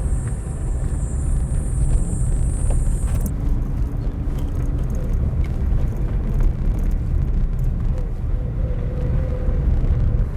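Car driving along a dirt road: a steady low rumble of engine and tyres. A thin, high hiss rides on top for about the first three seconds, then cuts off suddenly.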